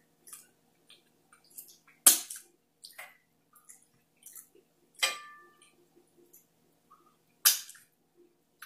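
Close-miked eating sounds: chewing a mouthful of deep-fried crab with wet lip smacks and small clicks, three louder sharp smacks about two, five and seven and a half seconds in.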